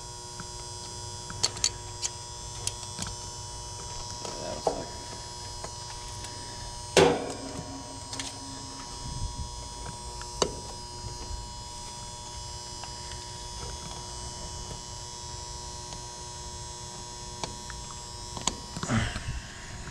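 Air conditioner unit running with a steady electrical hum made of several even tones. Scattered clicks and knocks sound over it, the loudest a sharp knock about seven seconds in.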